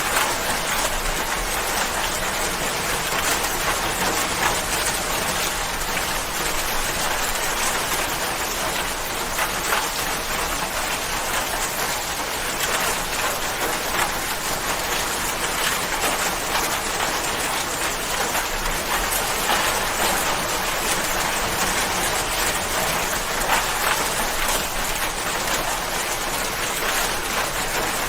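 Steady rain falling, dense patter of drops hitting a surface, even and unbroken.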